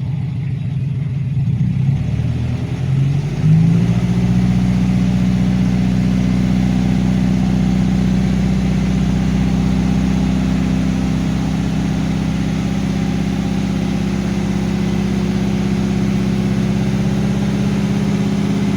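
Dump truck engine running. It wavers at first, speeds up about three and a half seconds in, then holds a steady, raised speed.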